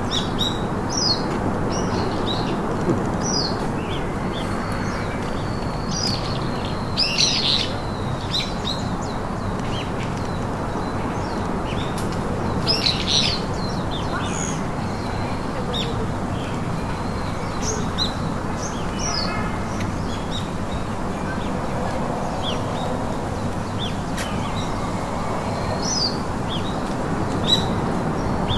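Birds chirping: many short, high chirps scattered throughout, a few louder clusters among them, over a steady background noise.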